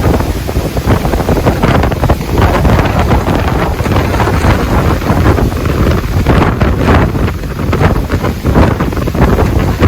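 Strong, gusty wind buffeting the microphone, a loud rumbling roar that swells and dips with each gust.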